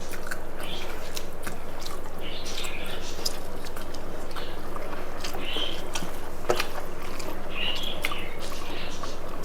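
Close-up eating sounds of rice and chicken curry being chewed: soft wet mouth clicks and smacks scattered throughout, over a steady low background hum.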